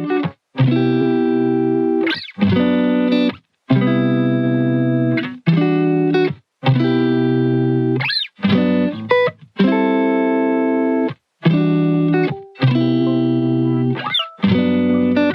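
Background music: a guitar playing chords that each ring for a second or so and stop sharply, with short gaps and a few sliding notes between them.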